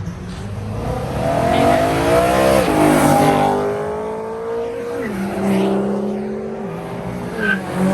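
A car engine accelerating hard, its pitch climbing and then dropping sharply twice, about two and a half and five seconds in, like upshifts through the gears.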